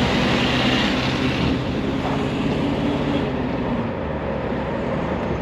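1970 Ford Mustang's engine running steadily on the road, with tyre and wind noise; a band of hiss is stronger in the first second and a half.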